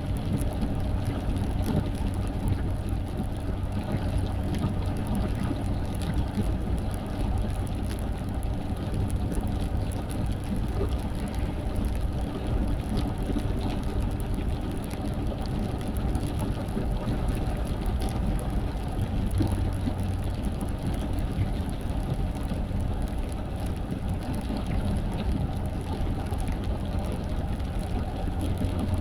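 A car driving, with the steady low rumble of engine and road noise.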